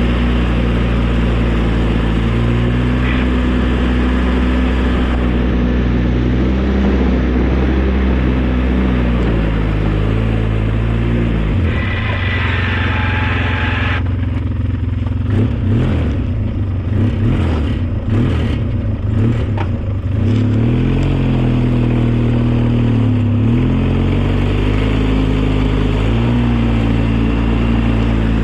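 A vehicle engine running steadily under load. Its pitch drops and rises as it changes speed, around the middle and again near the end, with irregular rattling in the middle.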